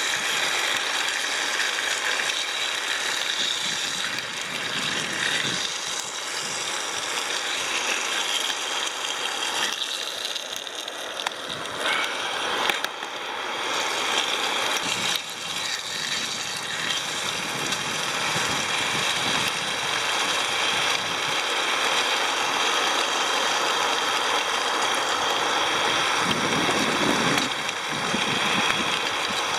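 Ham slices frying with a steady sizzle in a pan on a gas canister camping stove, the burner hissing underneath.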